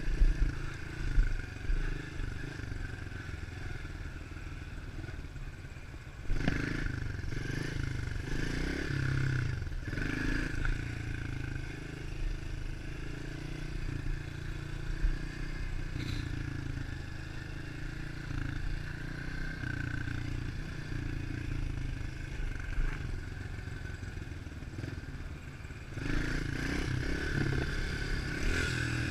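110 cc single-cylinder four-stroke pit bike engine running while being ridden. It gets louder under throttle about six to ten seconds in and again near the end.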